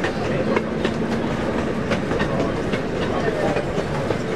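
Miniature zoo train running, heard from its open passenger car: a steady rumble of wheels on track with scattered sharp clicks of the wheels over the rail joints.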